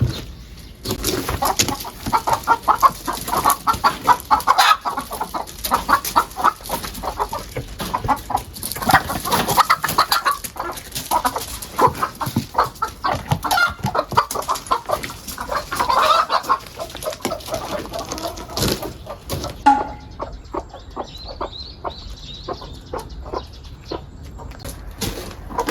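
Domestic chickens clucking over and over, with scattered sharp knocks and clicks among them.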